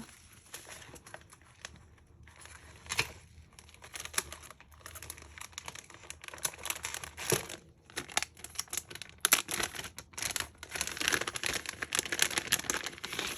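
A crinkly gift bag being handled and rummaged through, with irregular crinkling and rustling that grows busier near the end.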